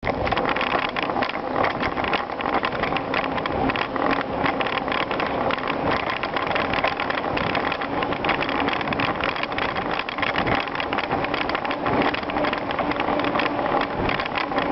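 Bicycle riding over gravel: tyres crunching and the bike rattling, with dense small clicks and knocks over a steady rush of noise.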